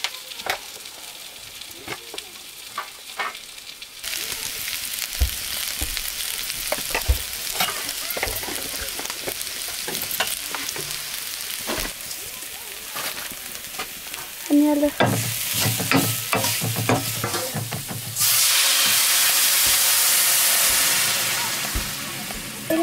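Food frying and sizzling in a pan while it is stirred, with scrapes and small clicks of the stirring utensil against the pan. About 18 seconds in the sizzle suddenly becomes much louder and steadier, then dies down near the end.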